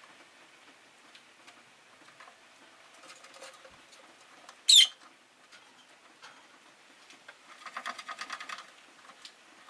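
Rosy-faced lovebirds: one sharp, high chirp falling in pitch about halfway through, then a quick chattering run of rapid notes lasting about a second near the end, over faint scattered clicks.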